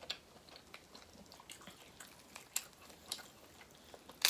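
Close-up eating sounds: seafood being chewed, with a few scattered short wet clicks and smacks.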